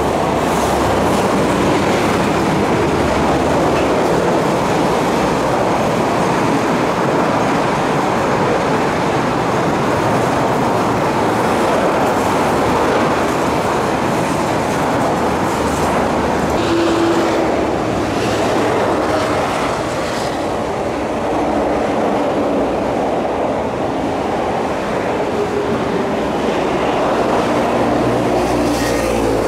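East Rail Line electric multiple-unit train passing close by: a steady rush and rumble of steel wheels on the rails with clicking over the rail joints. Brief steady tones stand out of the noise at the start, about halfway through and again near the end.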